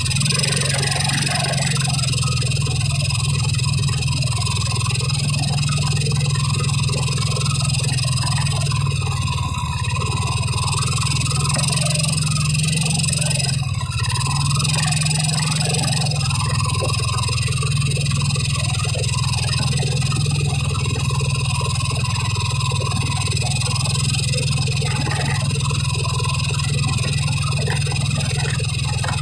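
Car engine and road noise heard from inside the cabin while creeping along in slow traffic: a steady low hum that swells and dips a little.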